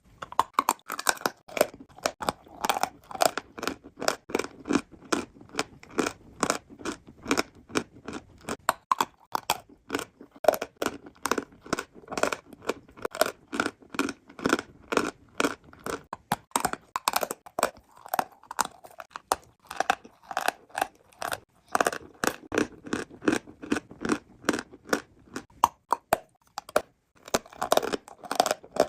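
Close-miked crunching and chewing of eating chalk: rapid crisp crunches, several a second, with a brief pause near the end.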